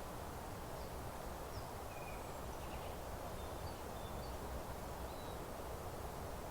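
Open meadow ambience: a steady background hiss of outdoor noise, with a few faint, short bird chirps scattered through the first five seconds.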